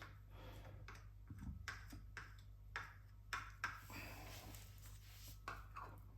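Faint, scattered clicks and light metallic taps of bolts and tools being handled, over a low steady hum.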